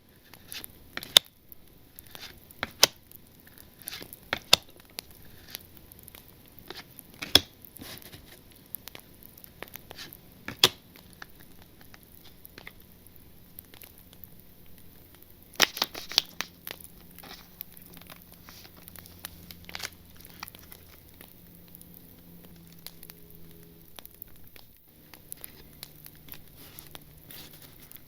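Foil wrappers of Panini Zenith football card packs being torn open and crinkled. Scattered sharp crackles give way to a dense burst of crinkling about halfway through.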